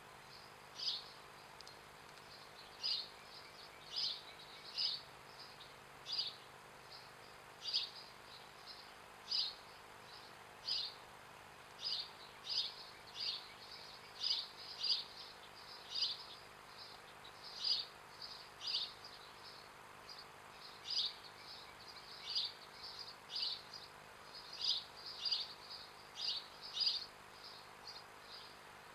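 A small bird chirping repeatedly: single short, high chirps about once a second, now and then in quick pairs, over faint outdoor background noise.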